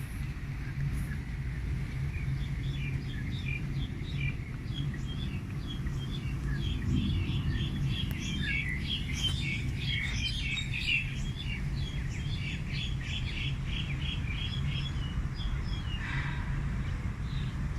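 Several songbirds chirping and twittering in quick short notes, busiest about halfway through, over a steady low hum.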